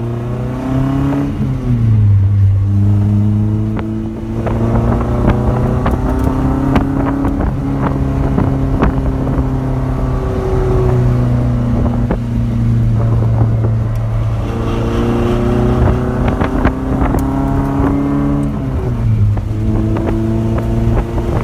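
1989 Nissan 240SX engine and Flowtech Red Hot Glasspack exhaust pulling hard through the gears. The pitch climbs, drops at a gear change about two seconds in and again near the end, and a crackling exhaust cackle runs through the middle.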